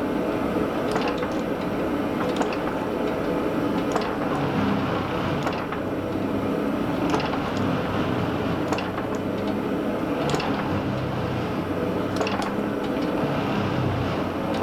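A shop machine running steadily with a low hum, with faint sharp ticks every second or two.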